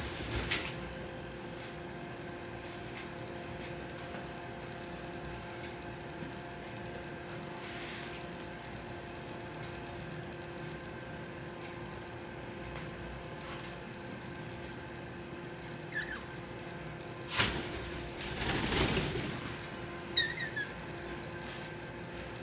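Steady mechanical hum, with two brief, faint chirps from small pet birds. Near the end a sharp click is followed by a short rustling noise.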